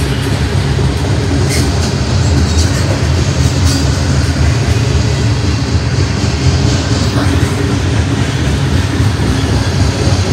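Freight train of covered hopper cars rolling past at close range: a steady, loud rumble of steel wheels on rail, with light clicks from the wheels.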